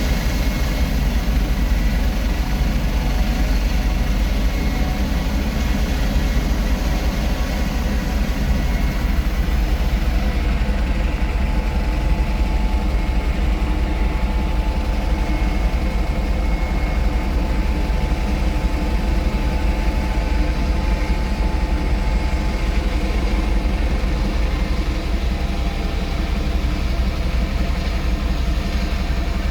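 AW169 helicopter's twin turbine engines and rotor running steadily: a continuous deep rumble with a thin turbine whine over it. The highest hiss fades about ten seconds in.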